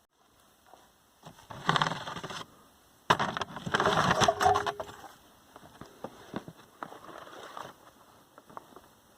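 Close rustling and scraping of something being handled, in two loud bursts a few seconds apart, followed by scattered sharp clicks and softer rustles.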